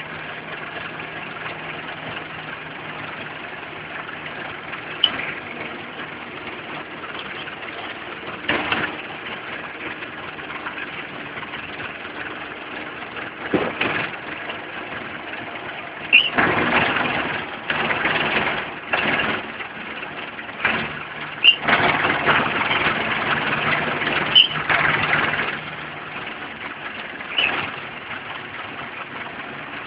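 Belarus tractor's diesel engine running steadily while mowing grass. Louder rushing stretches come in the second half, with a few short sharp cracks.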